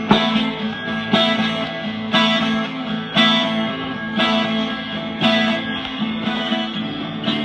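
Taylor 12-string guitar strummed in a slow, steady rhythm, a full ringing chord struck about once a second.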